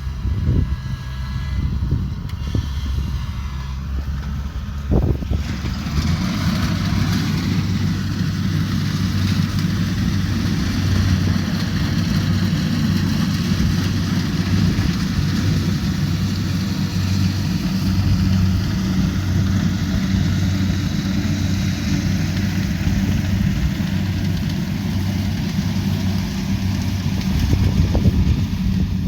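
Kubota DC70 Pro rice combine harvester running, its diesel engine a steady drone. About five seconds in the sound gets fuller, with a rushing hiss added above the engine.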